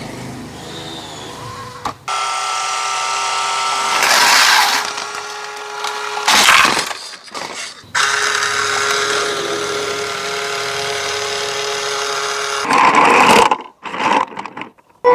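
Small electric motor and gears of an RC model truck whining in two long runs, with louder gritty surges, then cutting out near the end.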